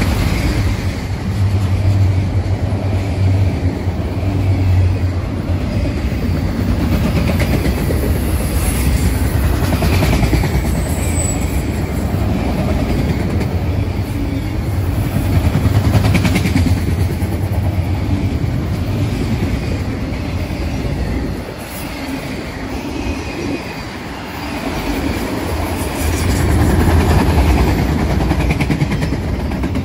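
Freight train of enclosed autorack cars rolling past close by: a steady, loud rumble of steel wheels on the rails, easing briefly about two-thirds of the way through before it builds again.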